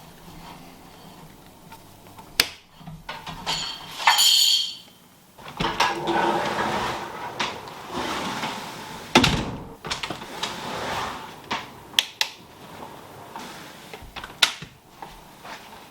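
Workshop handling noises: a series of sharp clicks and knocks from tools and parts being handled, with stretches of scraping and rustling between them.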